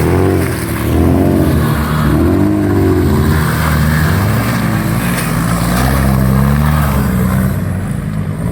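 Off-road 4x4's engine revving up and down several times, then running under steadier throttle.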